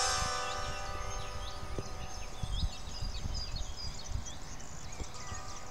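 Songbirds chirping in the trees: many short, quick high calls over a low rumble, as background music fades out in the first second.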